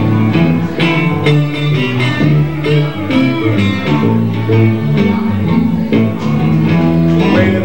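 Blues band playing live, with a guitar leading and no singing.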